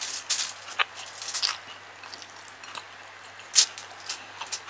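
Close-miked chewing of tough chicken gizzard: scattered wet mouth smacks and short clicks, the sharpest about three and a half seconds in.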